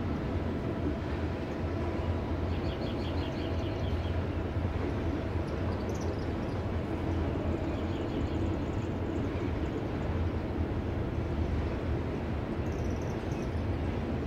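Freight train cars rolling past: a steady, continuous low rumble of wheels on rails.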